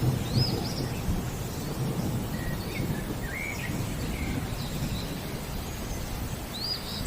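A steady low rumble of rolling thunder under a rainstorm, with birds giving a few short high calls over it, one near the start and one near the end, and some lower chirps in the middle.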